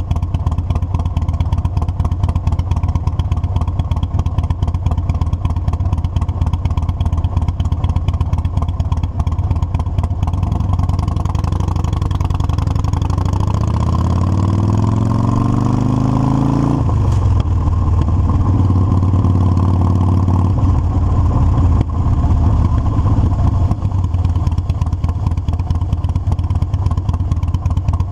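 Harley-Davidson V-twin motorcycle engine running under way. About halfway through it pulls up in pitch for several seconds, then drops suddenly at a gear change and runs on steadily.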